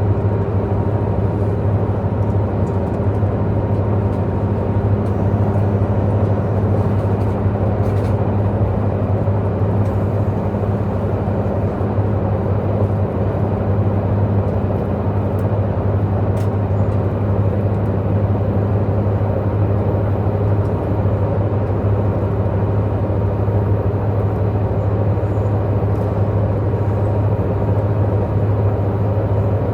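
Tze-Chiang diesel multiple unit running steadily at speed, heard from inside the passenger car: a constant deep engine hum over even rolling noise from the wheels and track, with a few faint ticks.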